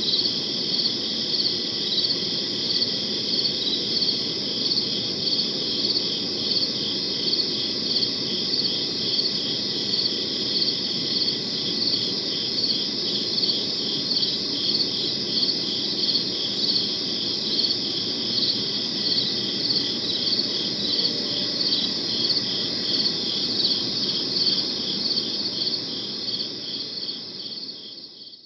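Crickets chirping in a steady chorus: a continuous high trill with regular pulsed chirps repeating over it. The sound fades away over the last couple of seconds.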